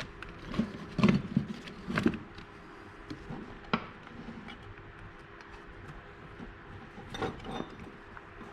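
A few separate sharp knocks and clinks of metal hand tools being handled, with quieter rattling in between.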